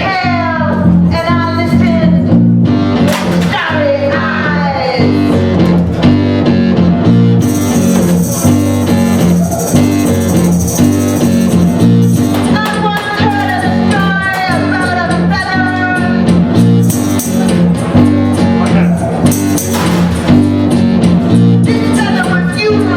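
Live band playing a bluesy rock number: guitar over a steady, repeating bass line, with sliding notes that fall in pitch on top.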